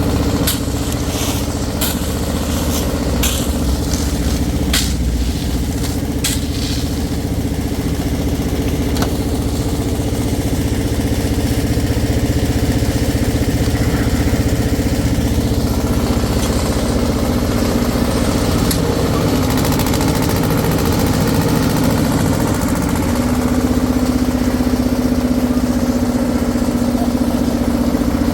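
Engine-driven concrete mixer running steadily, with several sharp metallic clinks and knocks in the first few seconds. The engine's hum shifts slightly in pitch about two-thirds of the way through.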